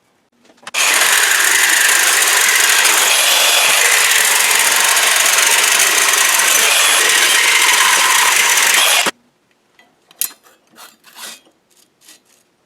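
Power tool cutting out a sheet-steel patch: a loud, steady, harsh noise for about eight seconds that cuts off abruptly, followed by a few short knocks.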